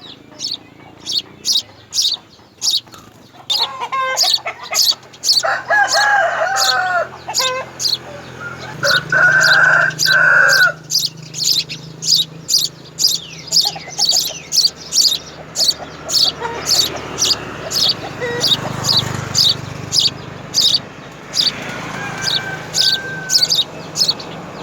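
Small birds chirping rapidly, short high chirps several times a second throughout. A rooster crows twice, about six and nine seconds in, and a low steady hum comes in after about nine seconds.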